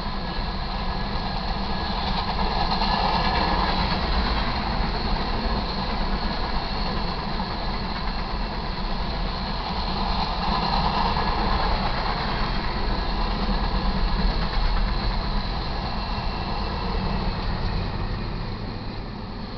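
Freight train's covered hopper cars rolling past, with a steady rumble and clatter of steel wheels on rail. Near the end the rear distributed-power locomotive, a GE C44-9W diesel, reaches the crossing and the sound starts to fade.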